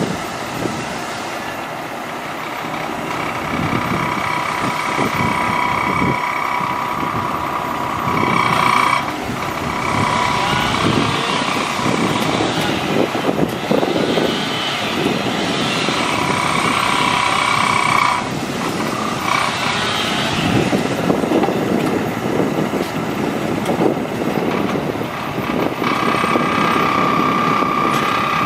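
Diesel engine of a 2003 Mack DM690S rolloff truck (Mack AMI-300) running, with a steady whine that comes and goes several times.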